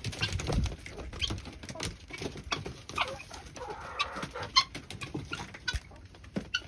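Chickens clucking: many short calls, quick and overlapping, from a flock of hens and roosters.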